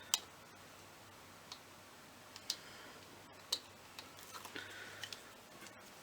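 Light clicks and taps from handling die-cut cardstock pieces on a craft table, about one a second, followed by soft paper rustling near the end.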